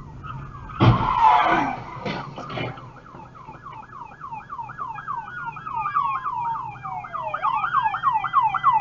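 Emergency-vehicle sirens: one on a fast yelp, falling sweeps repeating about four times a second, and a second siren on a slow wail that drops and then climbs again. A loud noisy burst comes about a second in, before the yelp starts.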